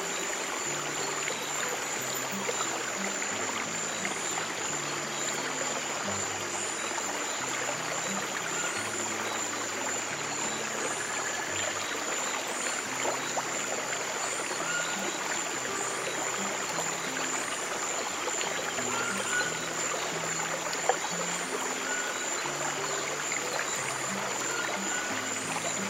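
Running stream water over a bed of soft, low held music notes that change every second or two. A steady high tone sits on top, with a faint chirp repeating about every two seconds.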